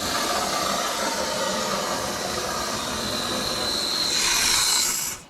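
Aerosol spray paint can discharging in one continuous hiss through a fed-in extension tube into the inside of a trunk deck panel; a thin high whistle joins about three seconds in, and the spray cuts off abruptly when the nozzle is released.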